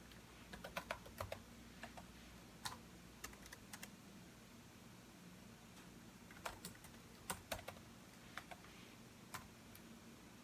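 Computer keyboard being typed on: faint, irregular keystrokes in short clusters, with pauses of a second or more between bursts.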